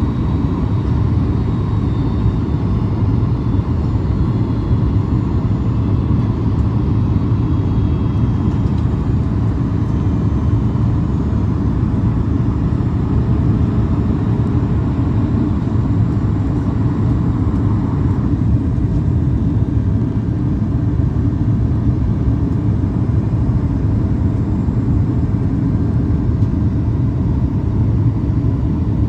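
Steady low rumble of a Boeing 737 MAX's cabin noise, engines and airflow, with a faint steady whine that fades about eighteen seconds in.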